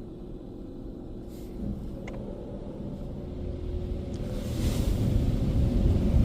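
Nu-Star Super Comet touchless car wash machinery heard from inside the car: a steady low rumble and hum from the wash equipment, growing louder through the second half, with a hiss of water spray about four and a half seconds in.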